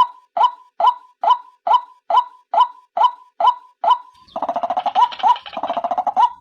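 Female white-breasted waterhen calls played as a bird lure: a steady series of short clipped notes, a little over two a second. About four seconds in the series breaks into a rapid harsh chattering that lasts about two seconds.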